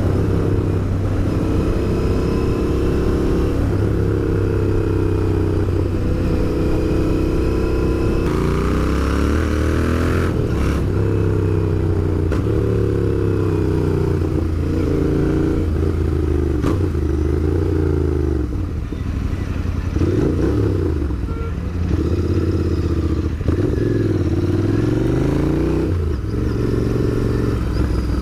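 Royal Enfield Interceptor 650's parallel-twin engine and exhaust under way, revs rising and falling as the bike is ridden through the gears, with several quick drops and climbs in pitch in the second half.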